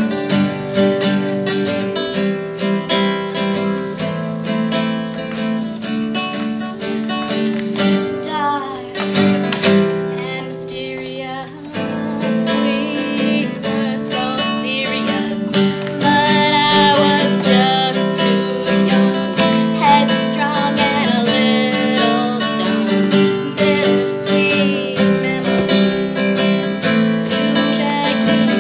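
Live acoustic performance: strummed acoustic guitar chords throughout, with a woman singing over them for stretches.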